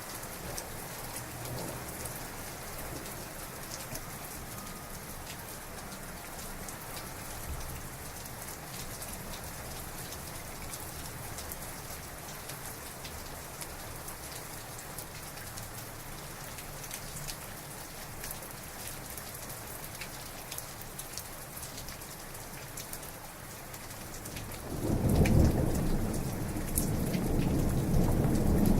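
Heavy rain falling steadily on surfaces, with fine drop ticks in the hiss. Near the end a loud, low thunder rumble breaks in and keeps rolling.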